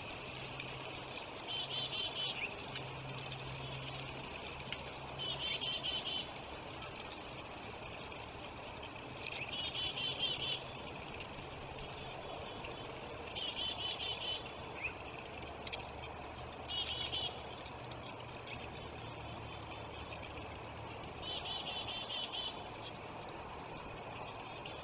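A bird calling in six short bouts of rapid, high chittering notes, a few seconds apart, over the steady rush of river water.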